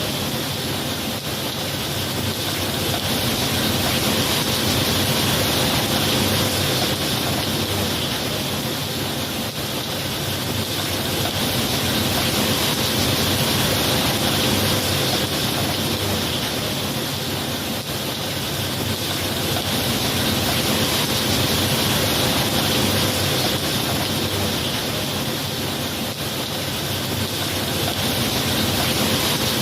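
Heavy rain falling as a steady hiss, swelling and easing in slow waves about every eight seconds.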